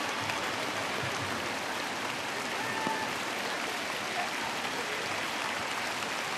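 Arena crowd applauding steadily, a dense wash of clapping.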